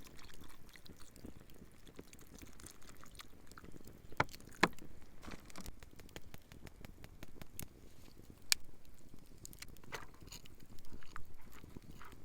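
Faint, scattered pops and crackles from a campfire cooking setup, with a steak grilling on a hot stone over the fire, over a low steady background; the loudest pops come a little after four seconds and at about eight and a half seconds.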